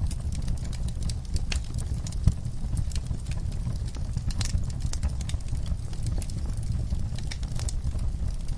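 Wood fire crackling in a fireplace: a steady low rumble of burning logs with frequent sharp snaps and pops, one louder pop a little over two seconds in.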